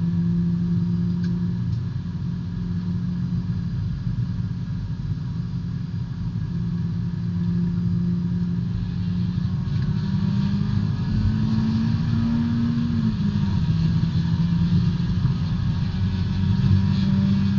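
B-Spec race car's four-cylinder engine running at fairly steady revs, heard from inside the car; the revs climb briefly about ten seconds in and drop back a few seconds later. A hiss grows louder from about halfway through.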